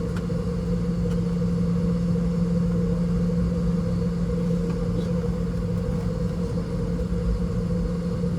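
Steady cabin drone of a Boeing 717 with its rear-mounted Rolls-Royce BR715 turbofans idling before taxi: an even low hum and rumble.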